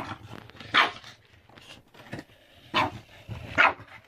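Boston terrier barking excitedly while playing with a remote-control truck: three loud, short barks with a few softer ones between.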